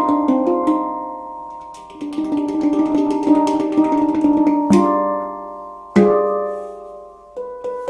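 Meraki handpan tuned to a G Arabic scale (G / C D Eb F G Ab B C D), played solo: quick runs of ringing metal notes that sustain and fade, with a single strong strike nearly five seconds in and another about a second later, then a few new notes near the end.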